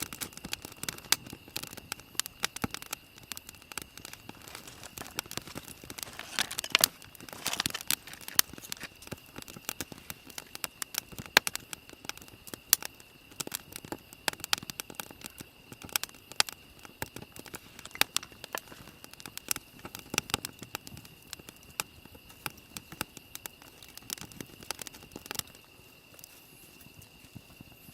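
Wood campfire crackling, with many irregular sharp pops and snaps over a faint steady high tone.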